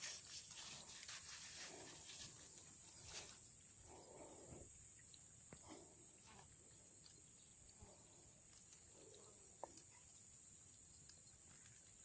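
Near silence outdoors: a faint steady high insect drone, with a few soft rustles and light ticks in the first few seconds.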